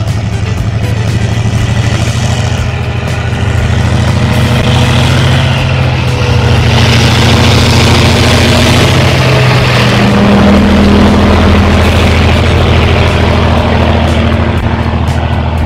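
Diesel locomotive passing slowly with its engine running steadily, the engine note shifting about ten seconds in. A rush of wheel and track noise swells toward the middle.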